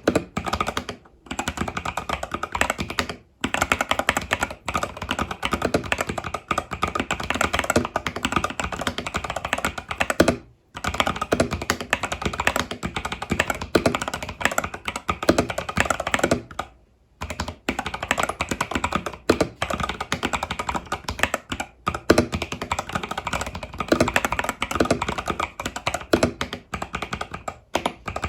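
Fast, continuous typing on an Epomaker TH80 Pro mechanical keyboard with Epomaker Budgerigar tactile switches and stock keycaps: dense key clacks that break off in a few brief pauses.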